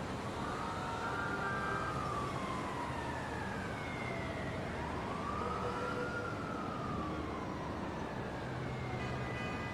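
A siren wailing, its pitch slowly rising and falling in sweeps of about five seconds, over a steady background hiss.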